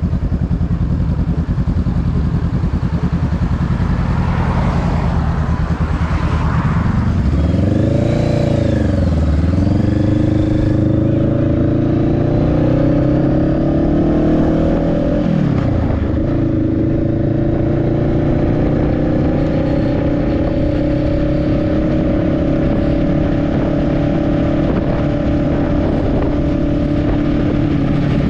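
Motorcycle engine heard from the rider's seat: running steadily at first, then revving up and dropping in pitch at gear changes, once about a third of the way in and again past halfway, before climbing slowly in pitch as the bike gathers speed.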